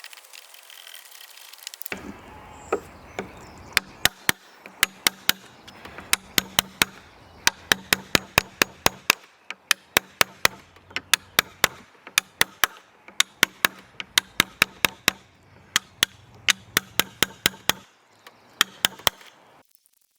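A chisel struck over and over, chopping waste out of a green oak lap joint: sharp blows at about three a second, with a few short pauses.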